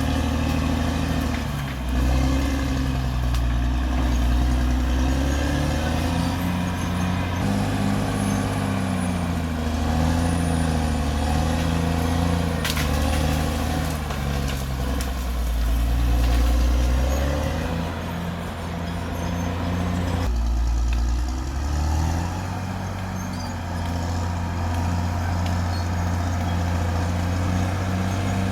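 Caterpillar D6R XL bulldozer's diesel engine running under working load, its pitch rising and falling as the load changes, with abrupt shifts in tone twice.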